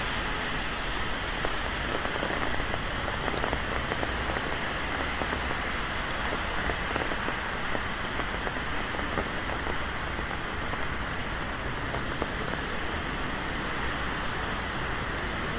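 Steady rain falling, many small drop hits over a constant hiss.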